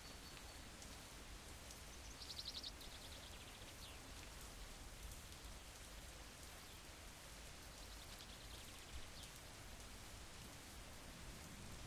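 Faint, steady rain hiss with scattered small crackles. Twice, about two seconds in and again about eight seconds in, comes a brief, rapid high-pitched trill.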